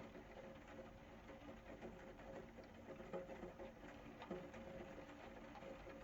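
Faint rain pattering, many small drops ticking, over a low steady hum.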